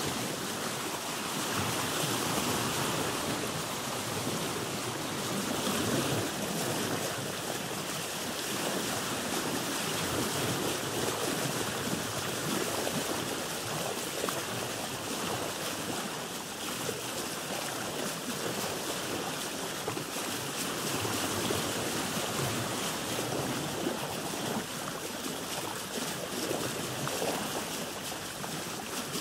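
Sea water washing and splashing against a boat's hull, with small waves lapping in a continuous wash that swells and eases gently.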